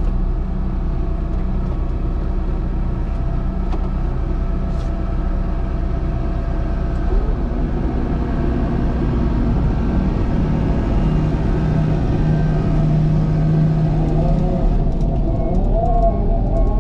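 Diesel engine of a heavy earthmoving machine running steadily under work. A wavering higher tone joins it near the end.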